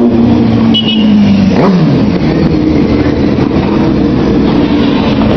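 Motorcycle engines running loud under throttle, with a short drop and climb in engine pitch about a second and a half in.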